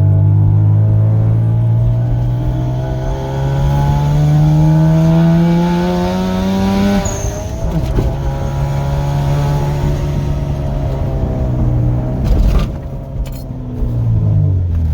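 Turbocharged 2.7-litre V6 of a 2005 Hyundai Tiburon with revs climbing steadily for about seven seconds, then dropping suddenly as the throttle is let off. It runs on at lower revs, with a short noisy burst about two seconds before the revs fall again near the end.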